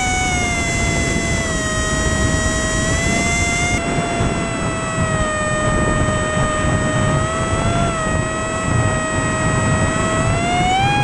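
The paper plane's small motor running with a steady, high whine. Its pitch sags a little over the first few seconds, then rises again near the end, over a rushing noise.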